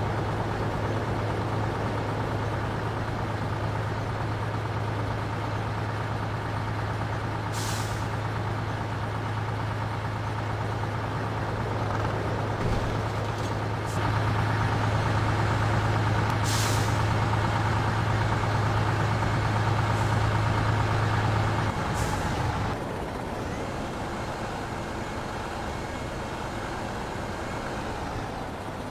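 Heavy truck's diesel engine running steadily, with short hisses of air from its air brakes three times.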